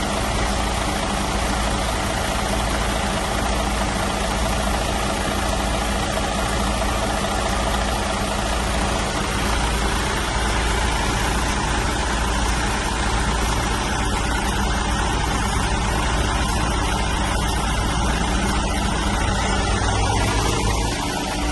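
Setra 516 HD coach's six-cylinder diesel engine idling steadily.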